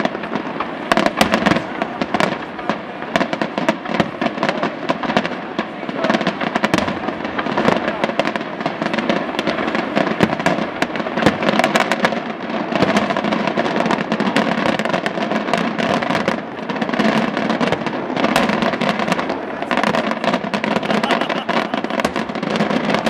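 Aerial fireworks display: shells bursting one after another amid dense crackling, a continuous barrage of bangs and crackle with no let-up.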